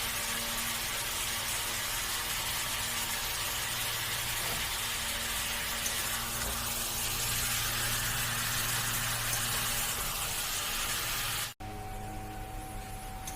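A steady hiss with a low hum beneath, cut off abruptly near the end, where a quieter stretch with a faint steady tone takes over.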